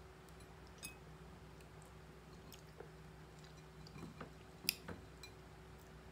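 Faint chewing and eating of fried dried fish and rice by hand, with a few small mouth clicks and smacks, the loudest just before five seconds in.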